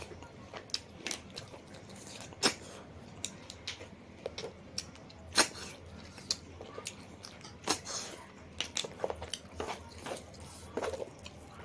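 A person eating: chewing and biting with irregular crunches and sharp clicks, three of them louder than the rest.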